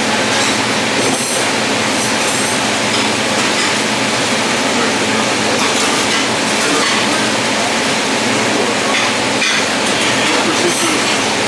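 Steady loud rushing noise, like a big fan or machine running, with a few light clinks over it.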